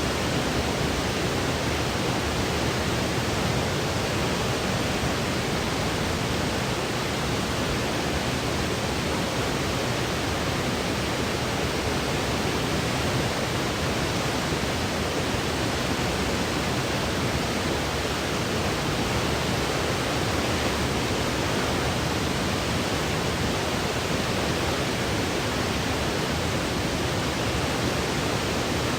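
Steady electronic white noise for sleep: an even, unbroken hiss that does not change.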